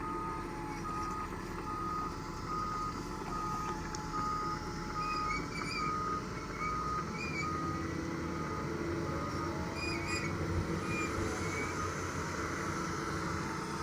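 Heavy machine's back-up alarm beeping about twice a second over a steadily running diesel engine; the beeping fades out about three-quarters of the way through while the engine runs on.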